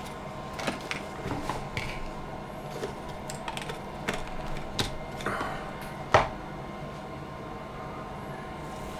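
Kitchen handling sounds: a scattered run of light clicks and knocks, like a jug, spoon and containers being moved, with one sharper knock about six seconds in.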